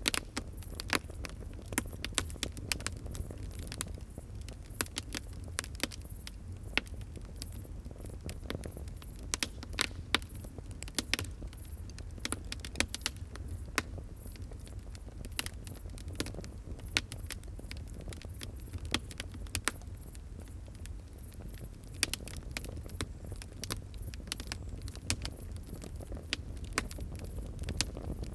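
Wood fire crackling, with many irregular sharp pops and snaps over a low steady rumble.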